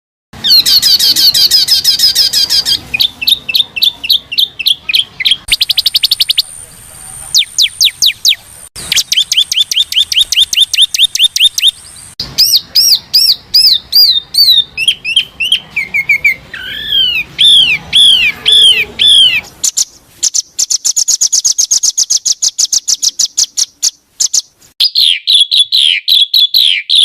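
Loud songbird song for training caged birds (masteran): fast high-pitched trills, rapid runs of repeated chirps and quick sweeping whistled notes. The pattern switches abruptly every second or two.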